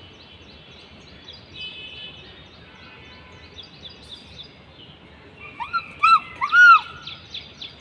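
Birds chirping in a busy chorus of quick, high, short calls. About five and a half seconds in, a bird gives a quick run of loud, arched calls that rise and fall in pitch, several within about a second and a half.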